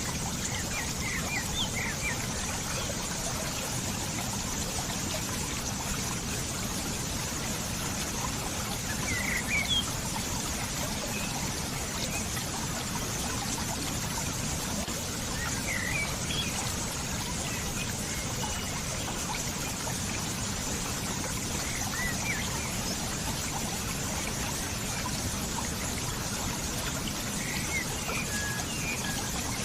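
Steady running water, a trickling stream, with short bird chirps now and then.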